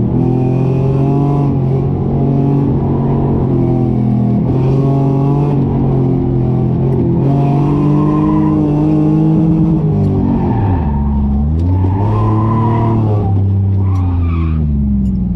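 Car engine working hard through an autocross run, its pitch rising and falling as the throttle goes on and off. The pitch drops steeply about ten seconds in as the car slows, climbs again, then falls away near the end.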